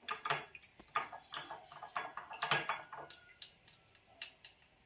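A utensil clinking and scraping irregularly against a small bowl while a sauce of fermented bean curd and soy sauce is stirred and mashed, in a quick run of light clicks that thins out near the end.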